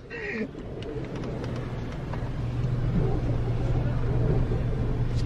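Honda CR-V's engine and tyre rumble heard from inside the cabin while driving slowly over a dirt track, a steady low drone that grows gradually louder.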